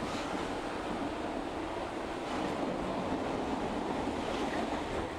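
Steady running noise inside a moving local train: wheels on the rails and rushing air, a little louder from about two seconds in, with a faint steady hum underneath.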